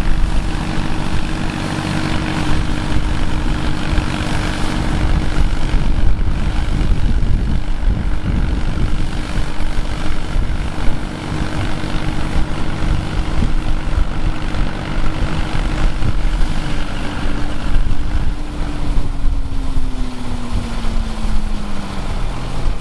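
Engine of vintage harvest machinery running steadily under a constant loud drone. In the last few seconds its pitch falls as the engine slows down.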